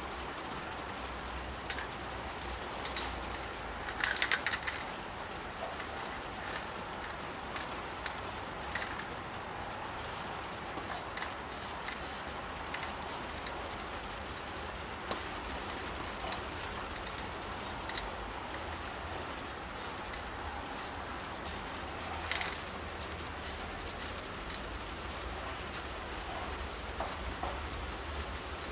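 Steady rain with scattered drips and ticks, and short hisses of an MTN 94 aerosol spray paint can. The loudest hiss, about half a second long, comes about four seconds in, and a shorter one comes around twenty-two seconds.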